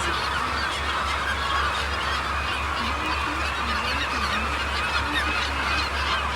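A large flock of gulls calling all at once, many overlapping squawks and cries with no break, over a steady low hum.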